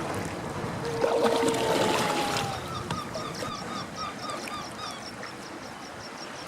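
A bird's long, level call about a second in, followed by a fast run of short, repeated falling calls, about three a second, over the wash of water.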